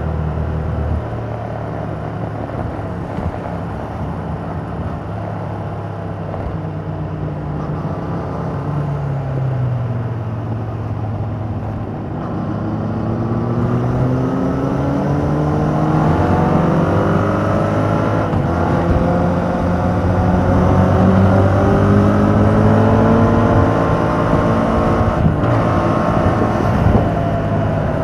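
A 2021 Yamaha MT-07's 689 cc parallel-twin engine running through its stock exhaust while riding. The revs ease off around nine seconds in, then climb steadily from about twelve seconds in as the bike accelerates, and hold at a higher steady pitch to the end.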